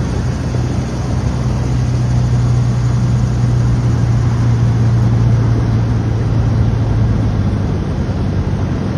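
An engine drones steadily with a strong low hum over a noisy rush, growing a little louder through the middle and easing off near the end.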